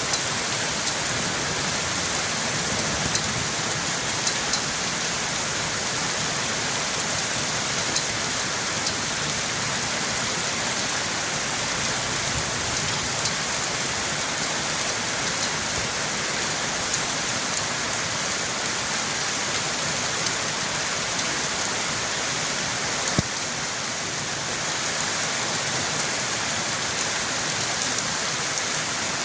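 Steady rain falling, an even hiss with scattered sharp drip ticks and one louder click about 23 seconds in.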